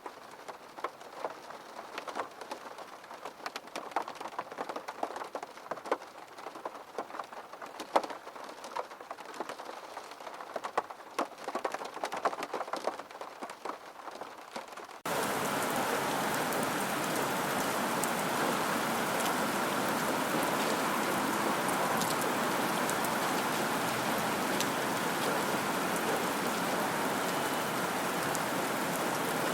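Rain: for about the first half, scattered separate drops tapping. Then it switches suddenly to a steady, louder, even downpour.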